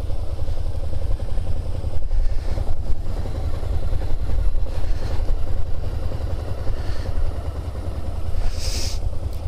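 Suzuki SVF650 Gladius's 645 cc V-twin engine running steadily at low revs as the bike rides slowly through tight turns, heard through a microphone inside the rider's helmet. A brief hiss near the end.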